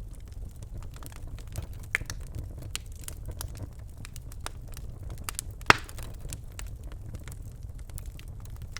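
Birchwood fire crackling in a fireplace: a low steady rumble of flames with irregular sharp pops, two louder snaps, one about two seconds in and one near six seconds.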